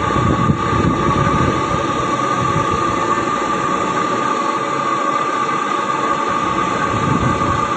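Heavy ore haulage truck running steadily, a continuous mechanical rumble with a constant high whine over it.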